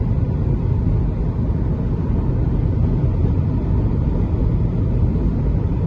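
Steady road and engine noise inside a moving car's cabin on the highway: an even low rumble.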